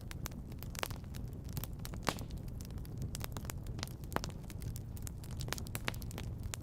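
Wood fire crackling in a fireplace: many small snaps and pops over a steady low rumble, with two louder pops about two and four seconds in.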